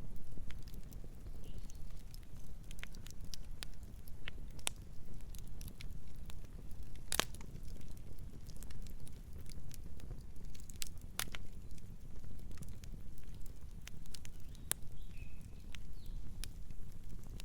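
Campfire burning: a steady low rush of flame under scattered sharp crackles and pops from the burning wood, irregularly spaced, the loudest pop about seven seconds in.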